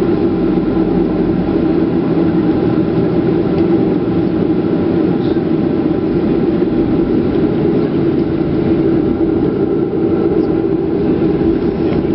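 Steady cabin noise of a Boeing 737-400 with its CFM56 turbofan engines running: an even rush with a constant hum, heard from inside the cabin.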